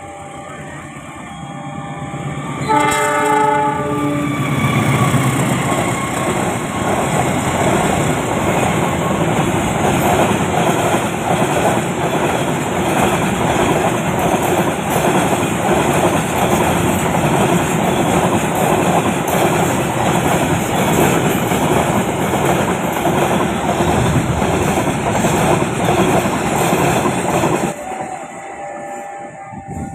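A locomotive sounds one horn blast about a second long as it approaches. The passenger train then rushes past with a steady rumble and clatter of wheels on the rails, which cuts off abruptly near the end.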